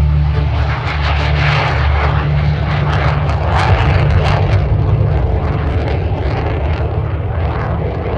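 Jet aircraft flying past: a loud rushing engine noise that swells and fades, over a steady low rumble.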